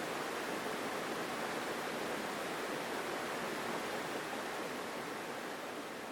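Mountain stream rushing strongly over rocks, a steady, full water noise that begins to fade out near the end.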